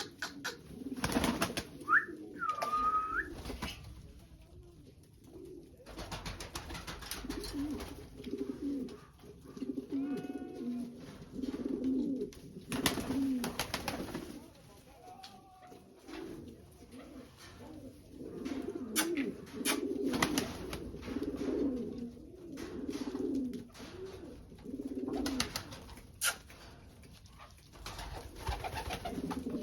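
Pigeons cooing over and over in low rolling coos, with scattered sharp clicks and a few brief higher whistled calls.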